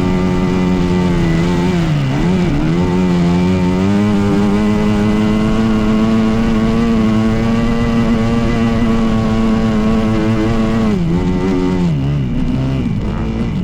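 Dirt bike engine running under steady throttle. The revs dip briefly about two seconds in, then hold steady and slightly higher. About eleven seconds in the revs fall off, then rise and fall with throttle blips.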